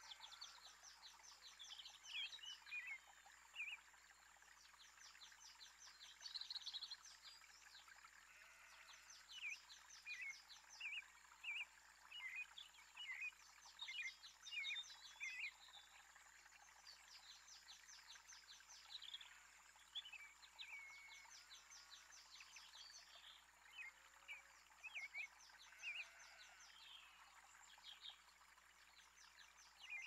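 Wild songbirds singing and calling: repeated rapid high trills, each lasting a second or two, with short chirps between them, over a faint steady high tone.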